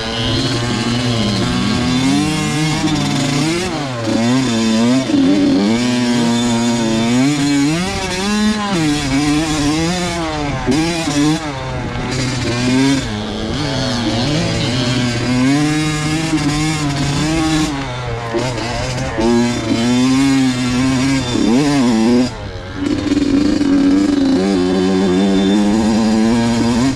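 Two-stroke motocross dirt bike engine being ridden hard, its pitch rising and falling over and over as the throttle is opened and rolled off, with a brief dip about two-thirds of the way through.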